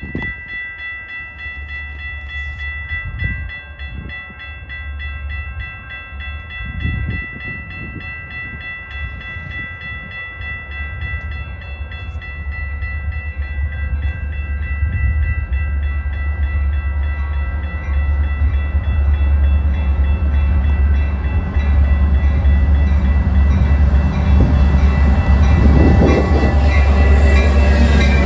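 Metra diesel commuter train approaching and pulling alongside, the locomotive's engine rumble growing steadily louder until it passes close by near the end. Steady high ringing tones sound over it, fading in the second half, most likely a grade-crossing warning bell.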